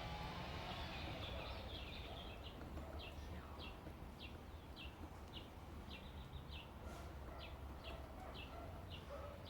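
Cardinal woodpecker calling: a long run of short, high, downward-sliding notes, about two a second, over a low steady background rumble.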